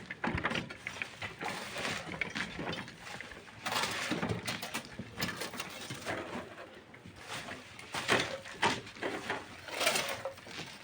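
Irregular scraping and clattering strokes of hand tools working sand and stone.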